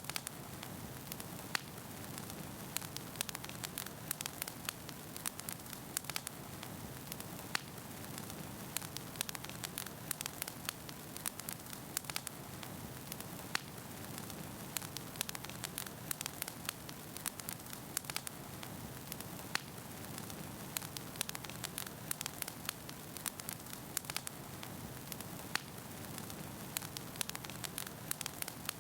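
Wood fire burning in a fireplace, with a steady low rush of flame and frequent irregular sharp crackles and pops from the burning logs.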